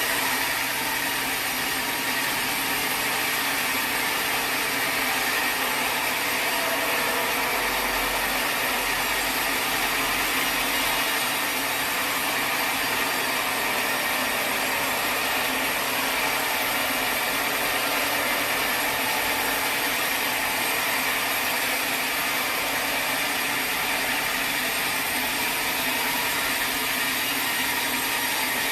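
Sawmill saw cutting steadily through a teak log: a continuous, even cutting noise that doesn't let up.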